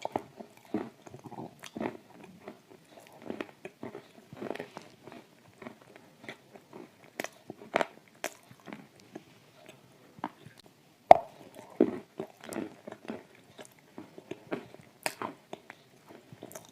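Close-up eating: dry shortbread cookie coated in thick clay paste being bitten and chewed, irregular crunches and moist mouth clicks, with a sharp loud crunch about eleven seconds in.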